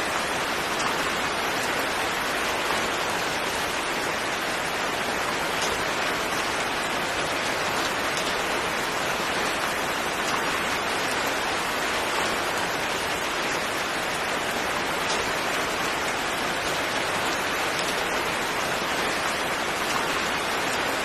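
Steady rainfall, an even hiss of rain falling on a surface with a few faint drop ticks.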